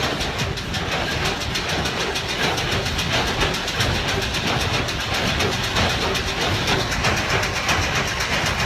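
1988 New Holland 575 wire-tie square baler running on a test run, its mechanism clattering in a fast, steady rhythm over a running engine.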